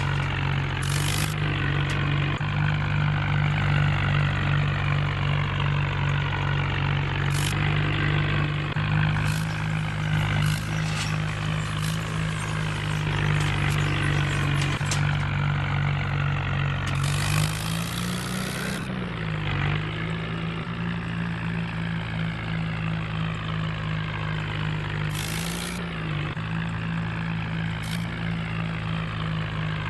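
Tractor diesel engine running steadily, briefly revving up and dropping back about two-thirds of the way through.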